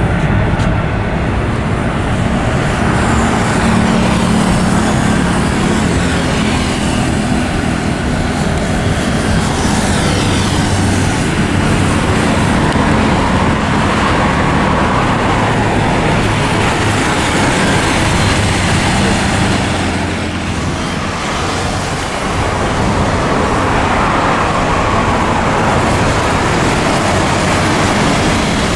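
Four Progress D-18T turbofan engines of an Antonov An-124-100 running loud and steady, with a low hum beneath and a high whine that slides in pitch; the noise dips briefly about twenty seconds in.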